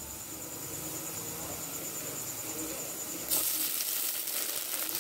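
Chopped onions frying in hot oil with a steady, quiet sizzle. About three seconds in, the sizzle turns suddenly louder and brighter, with chopped tomatoes now in the hot oil.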